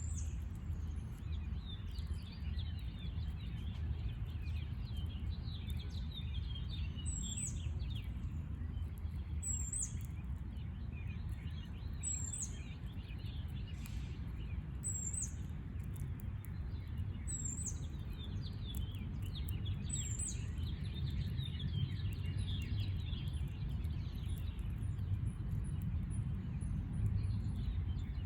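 Birds chirping in a yard, with one bird repeating a short, very high call about every two and a half seconds in the middle of the stretch, over a steady low rumble of background noise.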